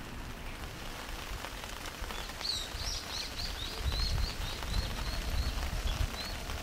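A small bird singing a run of about a dozen short, high chirps at a steady pace of about three a second. The song starts a couple of seconds in and goes on for about four seconds, over a low outdoor rumble.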